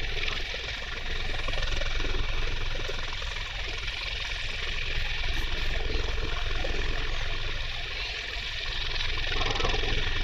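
Helicopter flying a display, its rotor and engine noise steady, easing a little about a second in and again near eight seconds.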